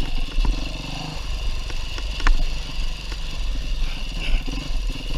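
Beta 390 RR-S single-cylinder four-stroke dirt bike engine running as the bike is ridden, with a few sharp knocks, the loudest about two seconds in.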